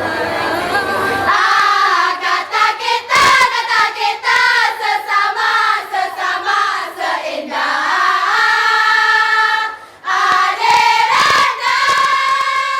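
A choir of voices singing together, moving through a phrase and then holding long chords, with a short break about ten seconds in.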